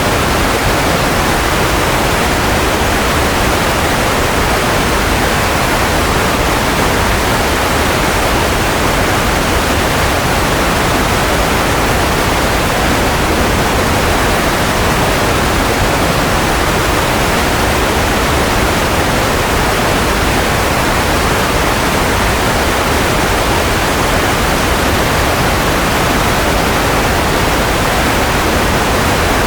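Steady, unchanging sleep-aid white noise: an even hiss with no tones, beats or breaks, fuller in the middle and low range than in the highs.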